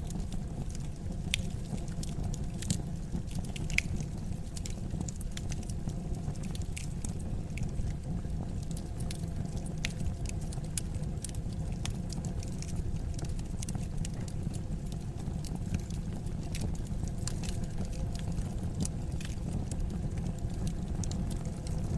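Wood fire crackling in a fireplace: irregular sharp pops and snaps, a few louder ones in the first few seconds, over a steady low rumble of the burning fire.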